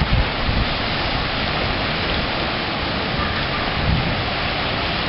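Steady roar of typhoon wind and storm-driven rough water. Gusts buffet the microphone near the start and again about four seconds in.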